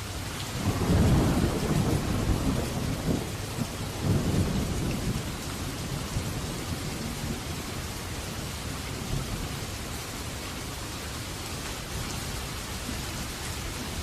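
Steady rain with a roll of thunder that rises about a second in, swells again near four seconds and rumbles away by about six seconds.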